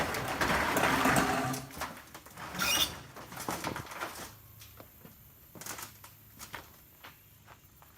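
Rustling and scuffling of kittens moving about, with a brief high squeak about three seconds in, then scattered light taps growing quieter.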